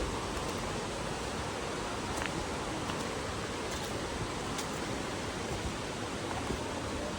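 Steady rushing of flowing river water, even and unbroken, with a few faint ticks over it.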